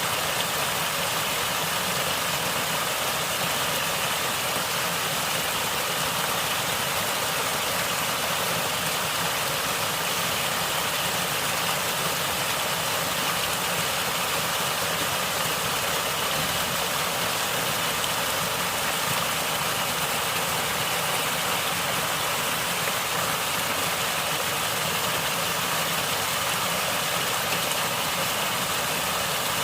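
Natural water flowing and gurgling, a steady, unbroken hiss of moving water with no pauses or changes.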